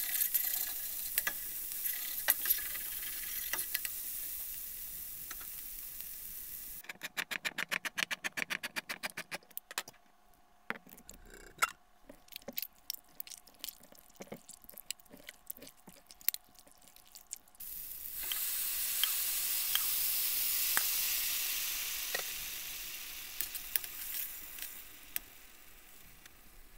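Sliced green peppers and onions sizzling in oil in a stainless steel pot as they are stirred. About seven seconds in, hands squish and crush canned whole plum tomatoes in a steel bowl, first in quick, even squelches, then more slowly. Then a loud sizzle swells up, the sound of the tomatoes going into the hot pan, and fades.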